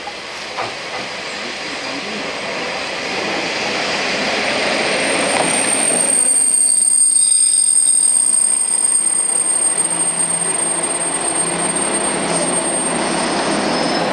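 'Hayato no Kaze' diesel sightseeing train pulling into the platform and passing close by. Its running noise builds to a peak about halfway through. A high, steady squeal comes in about five seconds in as it brakes, and a low steady engine hum sounds underneath in the last few seconds.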